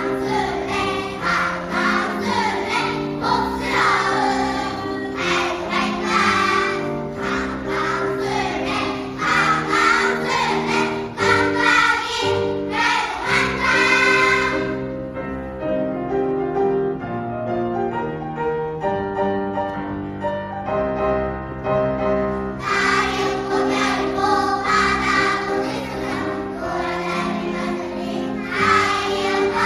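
Choir singing with instrumental accompaniment. About halfway through the voices stop and the accompaniment plays alone for several seconds before the choir comes back in.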